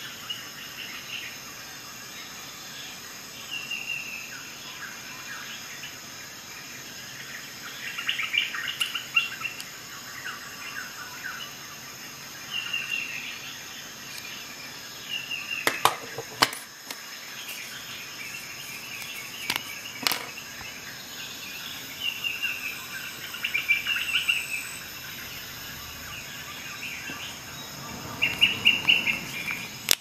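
Birds chirping in short runs of calls over a steady high-pitched whine, with a few sharp clicks near the middle.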